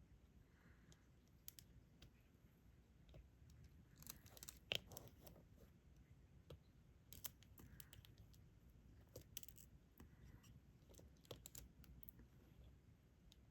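Faint, scattered clicks and taps of a diamond painting stylus picking resin drills from the tray and pressing them onto the sticky canvas, with one sharper click about five seconds in.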